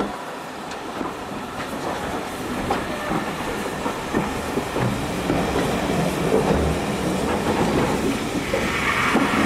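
Steam-hauled passenger train running at low speed, heard from an open carriage window: a steady rumble of wheels and coaches with scattered clicks of the wheels over rail joints, growing louder towards the end.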